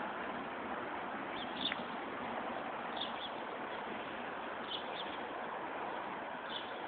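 A bird giving short, high chirps, one about every one and a half seconds, over a steady background hiss.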